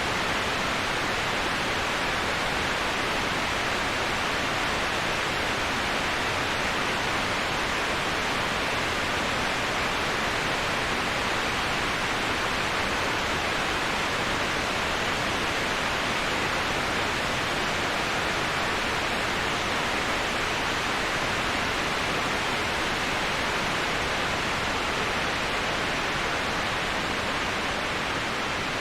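Steady, even rushing of a waterfall, a constant hiss-like wash of water with no breaks or separate splashes. It is strongest in the upper middle range and eases slightly near the end.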